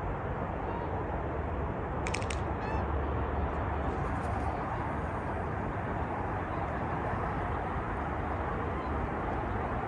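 Strong wind blowing steadily on the microphone ahead of a big storm, with a deep rumble. Faint bird calls come through it, and there are a couple of sharp clicks about two seconds in.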